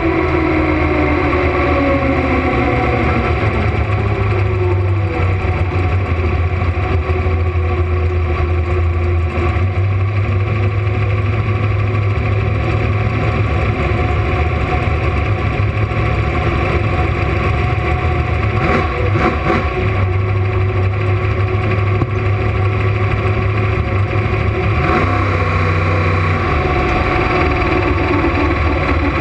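Camaro drag car's engine running at low speed: its pitch falls over the first few seconds as the revs drop, then it holds a steady low rumble, with a few brief clicks a little past the middle and a change in tone near the end.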